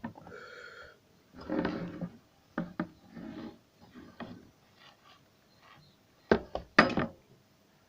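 Parts of an electric fan being handled and worked on by hand: irregular knocks and clicks with short scraping sounds, the sharpest knocks near the end.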